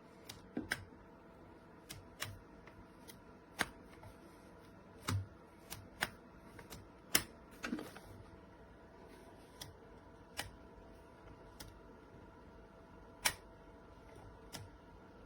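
Irregular sharp clicks and light knocks of hard objects being handled, about one or two a second and uneven in strength.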